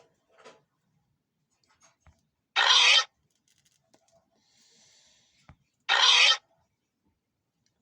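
Two short, harsh, rasping animal calls, each about half a second long and about three seconds apart.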